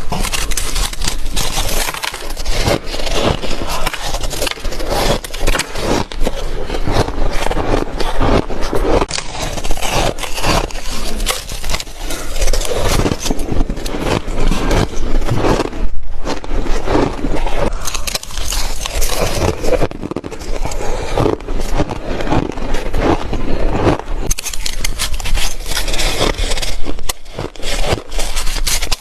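Shaved ice being bitten and chewed close to the microphone, spoonful after spoonful: dense, crackly crunching with a short pause about halfway through.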